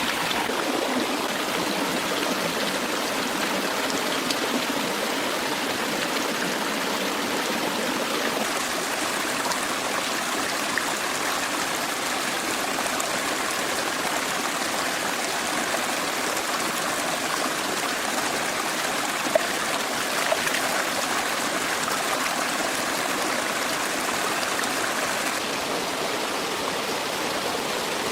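Forest stream flowing steadily, an unbroken rush of running water. Two brief ticks sound about two-thirds of the way through.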